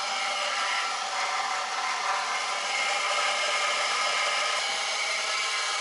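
Toyota RAV4 engine running at a steady fast idle just after a cold start on jumper cables, a continuous whirring drone.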